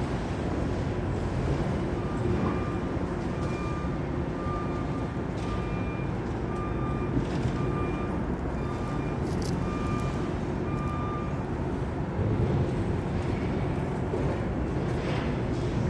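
Steady low rumble, like a running vehicle or traffic, with a series of short high-pitched beeps repeating about three times a second from about two seconds in, stopping a little past the middle.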